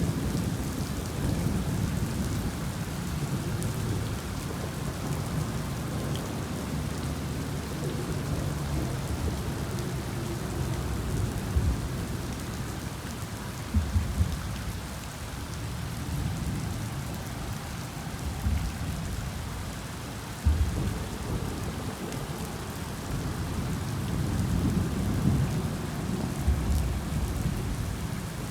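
Heavy rain falling steadily, with a constant low rumble beneath it and a few short thumps, the loudest a cluster about fourteen seconds in and another about twenty seconds in.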